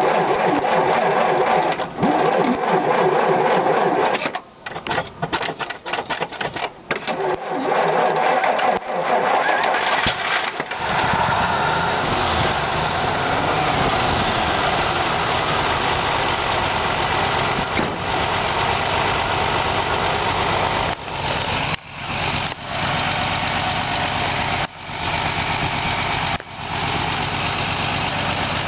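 1939 Dodge D11's 218 flathead straight-six stuttering and cutting in and out for several seconds, then catching about ten seconds in and running on rough, with brief dips every few seconds. It is a misfire whose cause is not yet found after a new fuel pump, plugs and wires.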